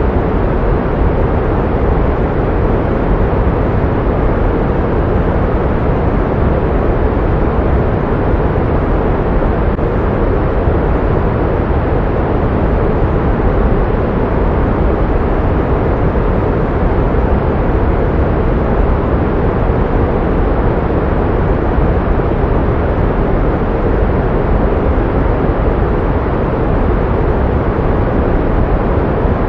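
Pink noise: a steady, unchanging rushing sound, fuller in the lows than in the highs.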